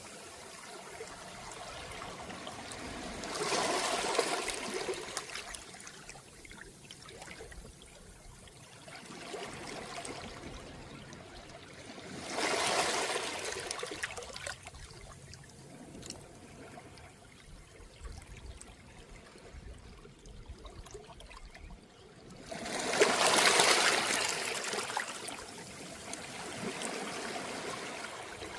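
Small, calm sea waves washing up a round-pebble beach: three swells about ten seconds apart, each a rising and fading rush of water over the stones, the last the loudest, over a soft steady wash between them.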